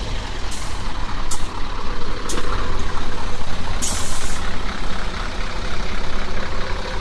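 Scania R500 truck's diesel engine running with a steady low rumble, cut by several short hisses of compressed air from its air brake system, the longest about four seconds in.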